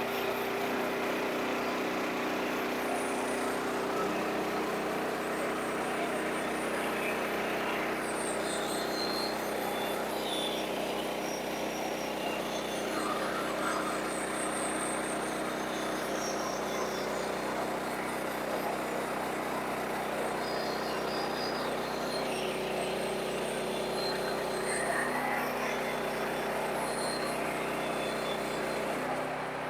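Sawmill running steadily: an engine drone over a dense mechanical noise, its pitch dropping slightly about four seconds in.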